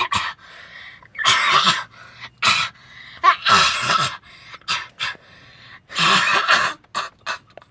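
Chewbacca-style Wookiee growling roars, a series of harsh vocal bursts, some short and some lasting about half a second, given as Chewbacca's turn to sing.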